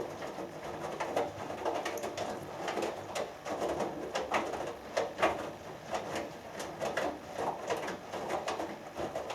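Hoover Dynamic Next front-loading washing machine in its main wash, drum tumbling the laundry so that wet clothes and water slosh and splash in irregular surges.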